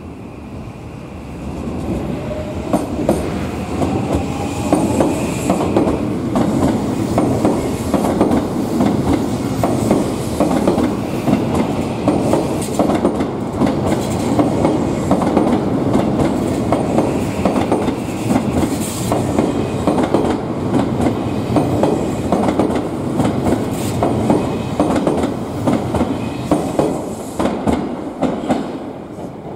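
Odakyu electric commuter train running past on the tracks, its wheels clattering steadily over rail joints and points. A rising electric motor whine is heard in the first few seconds as the sound swells.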